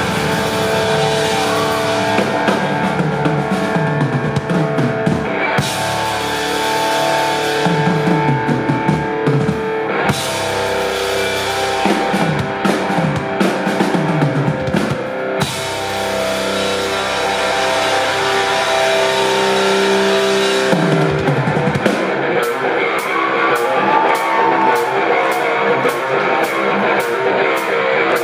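A rock band playing live, an instrumental passage of electric guitar holding sustained notes over drums and bass. About 22 seconds in the bass and kick drop away, leaving guitar over a steady high tick about twice a second.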